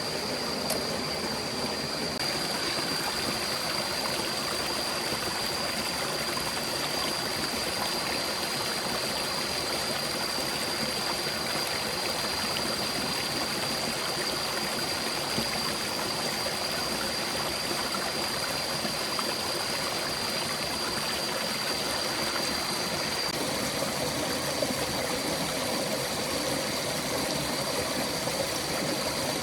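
Stream water flowing and babbling steadily, with a constant thin high-pitched tone running over it.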